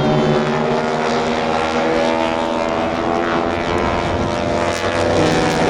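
Propeller-driven airplane's piston engine running loud and steady, its note wavering a little in pitch as it flies.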